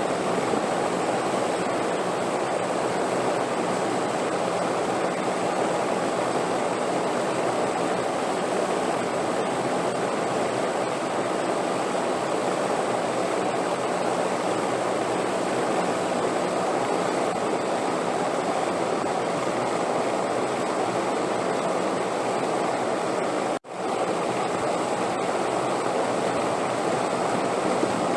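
Steady rushing wind, an even, unchanging noise. It cuts out for an instant about three-quarters of the way through, then carries on as before.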